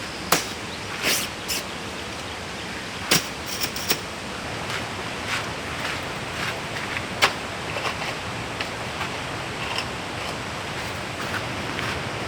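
Steady rushing of a valley stream, with a handful of sharp clicks and knocks over it, the loudest about a third of a second in, around three seconds in and about seven seconds in.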